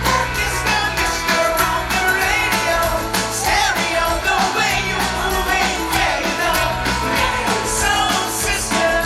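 Live pop-rock band playing with a lead singer over a steady drum beat and bass.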